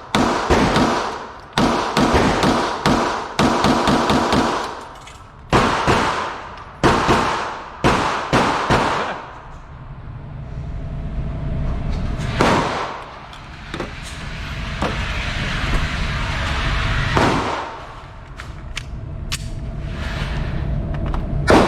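9mm handgun shots fired in quick strings, several a second and each ringing briefly, for the first half. Then a steady background noise with three single shots spaced a few seconds apart.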